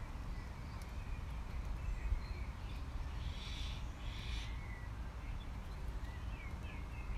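Outdoor ambience: birds chirping sporadically over a steady low rumble, with two short, harsher calls about halfway through.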